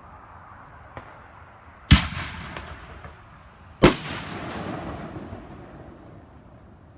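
Aerial firework shells bursting: a faint pop about a second in, then two loud booms about two seconds apart, the second trailing off in a fading rumble.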